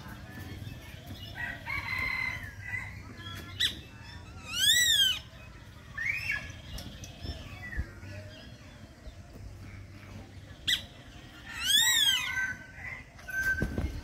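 Zoo birds calling: two loud, ringing calls that each rise and fall in pitch, about seven seconds apart, with fainter chirps and calls between them.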